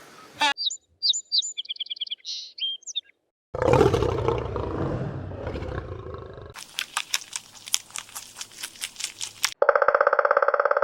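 A run of wild animal calls one after another: high chirping and trilling for the first few seconds, then a long, rough big-cat roar, the loudest part, then a quick series of sharp repeated calls, and near the end a steady pulsing buzz.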